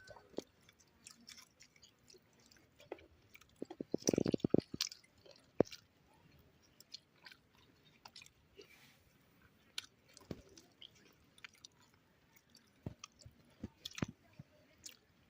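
People eating chicken curry and paratha: chewing and mouth sounds with scattered small clicks. About four seconds in there is a short cluster of louder knocks.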